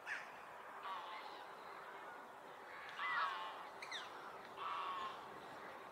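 Birds calling over steady background ambience: three short harsh calls, about a second in, at three seconds (the loudest) and near five seconds, with quick falling whistle-like notes near the start and just before the fourth second.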